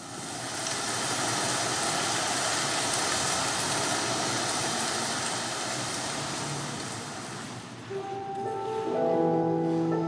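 Audience applauding steadily for about seven seconds, then fading. About eight seconds in, the skater's program music starts with slow, held notes.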